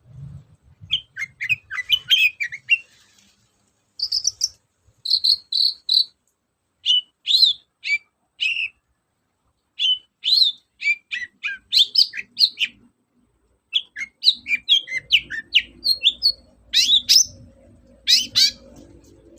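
Long-tailed shrike (cendet) singing: a fast, varied run of sharp chirps and short phrases, delivered in bursts of a few seconds with brief pauses between them. A faint low hum comes in during the last few seconds.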